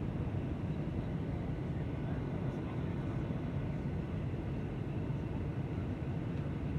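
Airliner in flight: a steady low rumble of engines and airflow, even in level.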